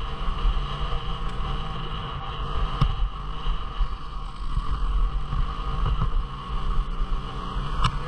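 Dual-sport motorcycle engine running steadily on a trail, with wind buffeting the helmet camera's microphone.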